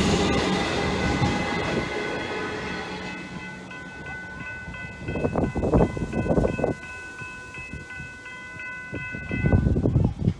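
Suburban train running past and fading away over the first few seconds, followed by a steady high ringing that pulses on and off several times a second and stops near the end. Short bursts of low rumble come in the middle and again near the end.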